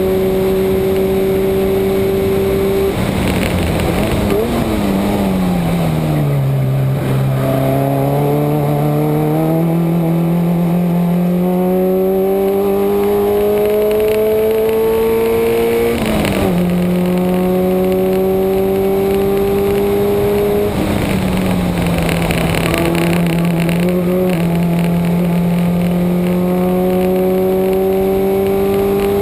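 Subaru flat-four engine driven hard on a race track. Its pitch falls under braking a few seconds in, then climbs steadily under acceleration. It drops sharply at an upshift about halfway, climbs again, eases briefly about two-thirds of the way in, and rises again near the end.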